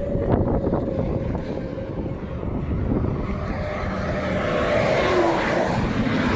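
Interstate highway traffic passing close by. One vehicle swells up and goes past about five seconds in, its pitch dropping as it passes, over a steady low rumble.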